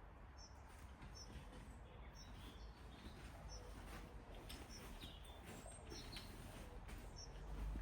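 Faint outdoor ambience: a small bird giving short, high chirps every second or two over a steady low rumble.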